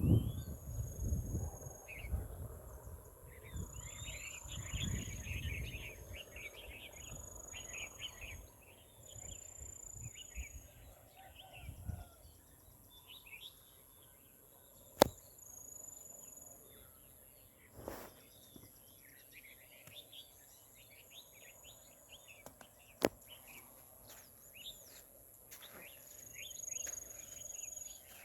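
Small birds chirping and twittering, many short calls overlapping, with a few longer high drawn-out notes. A low rumble in the first few seconds, and three sharp clicks later on.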